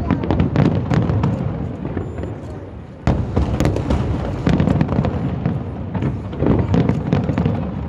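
Aerial fireworks going off in quick succession: a dense run of crackling pops and bangs over a low rumble, with a sharp bang about three seconds in.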